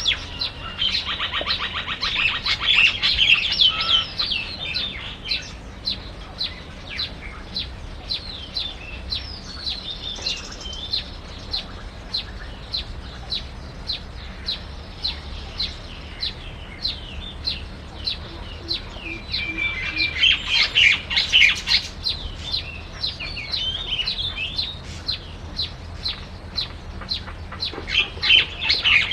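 Small birds chirping in short, high calls, several a second, with louder bursts of rapid chattering near the start, about two-thirds through and at the end.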